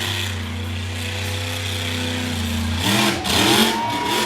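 Monster truck engine running at a steady pitch, changing to a louder, uneven sound for the last second or so.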